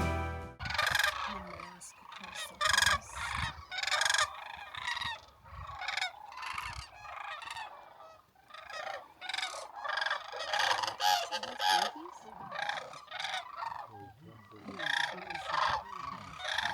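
A flock of sandhill cranes calling, with many overlapping calls in repeated bursts throughout.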